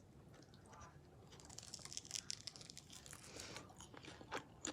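Faint crinkling of paper food packaging being handled, with scattered small clicks that start about a second and a half in.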